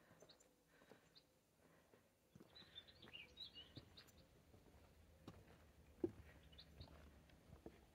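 Near-quiet outdoor air with faint, scattered bird chirps, a short burst of them about three seconds in, and a few soft clicks, the sharpest about six seconds in.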